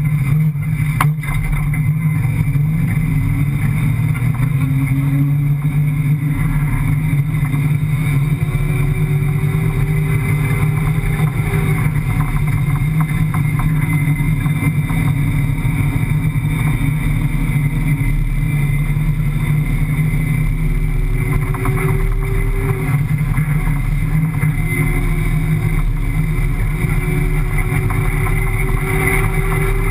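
5.7-litre Hemi V8 of a desert rally car running hard and steadily, heard from inside the cabin, its pitch climbing several times as it pulls on up through the revs. A sharp knock from the car about a second in.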